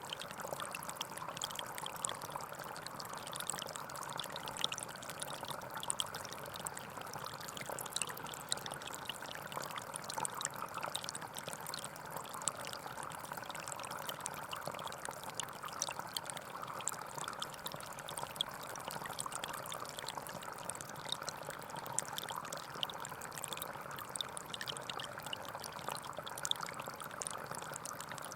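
Small forest stream flowing and babbling over stones, a steady rush of water with many small splashes and trickles.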